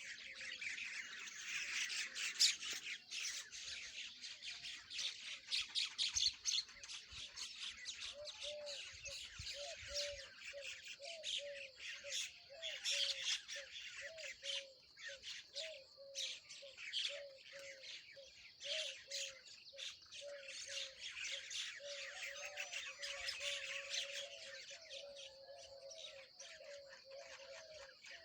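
Birds chattering and squawking in a dense run of rapid high calls. From about eight seconds in, a lower short call repeats roughly twice a second underneath.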